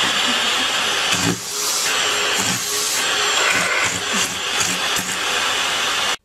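Vacuum cleaner running with a steady rushing hiss, its nozzle held against a cat's face and fur. It cuts off suddenly near the end.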